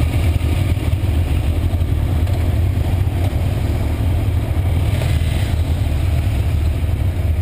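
Motorcycle engine running steadily: a constant low rumble with an even rushing noise over it.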